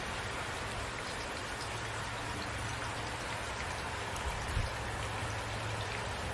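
Steady rain falling, a continuous even hiss with a low rumble beneath and scattered drop ticks. There is one brief low thump about four and a half seconds in.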